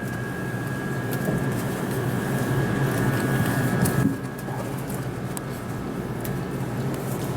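Steady low mechanical hum and rumble, like background machinery or a ventilation fan, with a thin high whine over it that cuts off about four seconds in.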